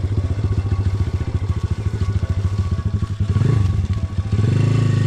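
Dirt bike engine chugging at low revs in rapid, even firing pulses. It gives a short blip of throttle a little after three seconds, then revs up and holds the higher revs from about four seconds in.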